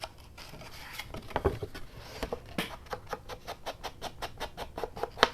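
Espresso-coloured ink pad dabbed quickly and repeatedly against the edges of a paper journal flap: a run of light taps, about five a second, with one sharper tap near the end.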